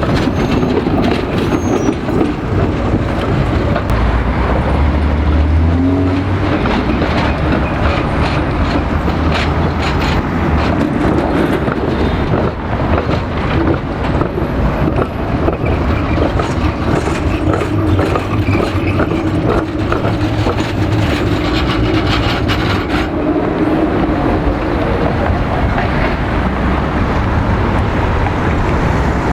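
City tram running along street track, a steady loud rumble with many clicks and rattles from the wheels on the rails.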